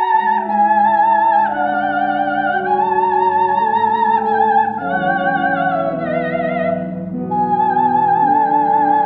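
A soprano sings long, sustained phrases with a wide vibrato over held orchestral chords. She takes a brief pause about seven seconds in before the next phrase.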